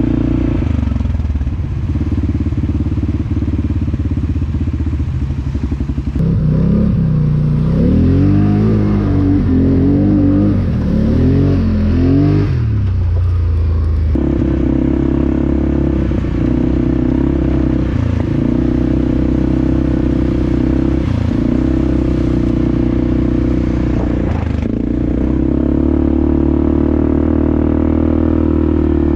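ATV engine running steadily. About six seconds in it revs up and down several times for several seconds, then settles back to a steady drone.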